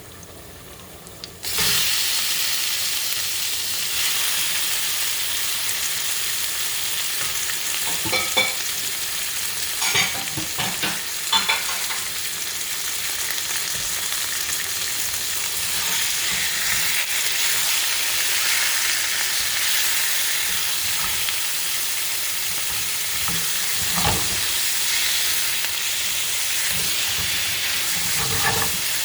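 Boneless chicken pieces going into hot olive oil with garlic and green chillies in a frying pan: a loud sizzle starts suddenly about a second and a half in and keeps on steadily. A few short knocks and scrapes of the utensil against the pan come as the chicken is stirred.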